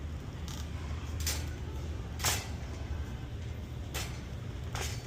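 Shopping cart being pushed: a steady low rumble with five short sharp clicks or clunks spread through, the loudest a little past two seconds in.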